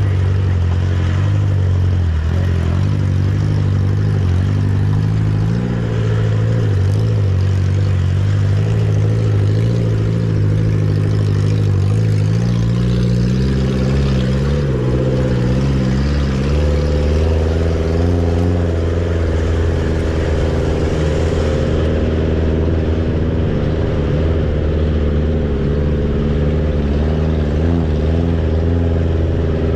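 Off-road 4x4 engine running steadily at low speed while crawling along a dirt track, heard from inside the vehicle; its note shifts in pitch about halfway through as the throttle changes.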